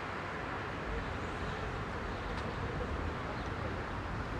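Heavy rush-hour city traffic: a steady rumble of car engines and tyres on the road.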